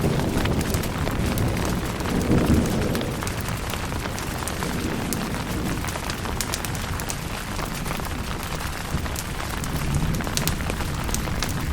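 Steady rain falling on a tent, with sharp drop ticks and low rolling thunder that swells about two seconds in and again near the end.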